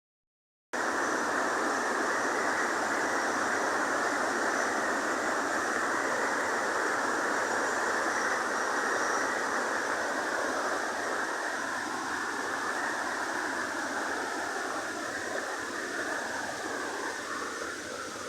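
Heavy rain falling: a steady, dense hiss that eases a little in the second half.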